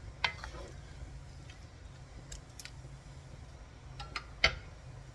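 Kitchen handling sounds: a few sharp clicks and knocks, the loudest near the end, over a steady low hum.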